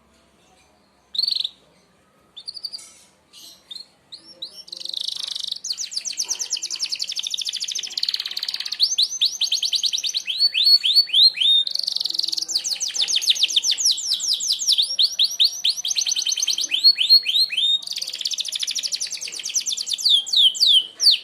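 Merlok canary singing: a few short high notes, then from about four seconds in a continuous song of fast trills, rapid runs of repeated downward-sweeping notes in the sharp 'tembakan' style, cutting off suddenly at the end.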